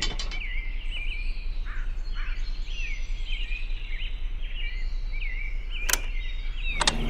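Small birds chirping over and over, about twice a second, above a steady low hum, with two sharp clicks near the end.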